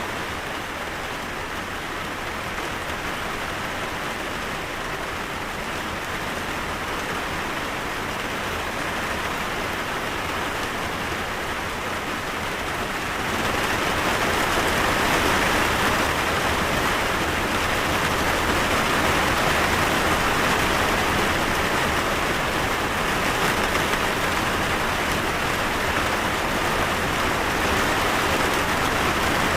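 Steady rain falling, an even hiss of drops that grows louder about halfway through and then holds steady.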